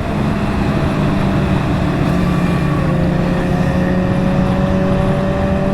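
Motorcycle engine running steadily under way, with rushing wind beneath it; its pitch creeps slowly up from about three seconds in.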